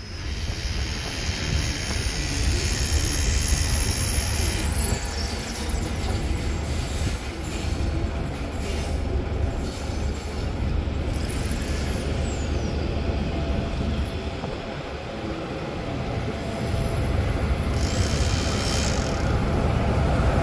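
Train running on the rails: a steady rumble of wheels and rolling stock with a few faint high wheel squeals, growing louder near the end.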